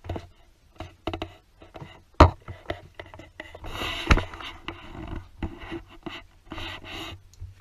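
Irregular clicks and knocks with bouts of rustling, handling noise in a small room; the sharpest knocks come about two seconds in and again about four seconds in.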